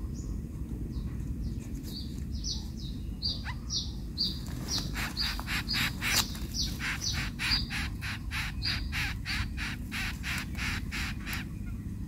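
Bird calling a series of short, high, harsh notes, a few scattered at first and then about three a second from about four seconds in until shortly before the end, over a steady low rumble.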